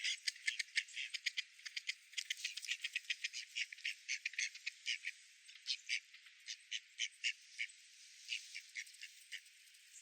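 Ducks calling in a quick, irregular run of short, rattling notes, several a second, thinning out in the second half. The sound is thin, with no low end.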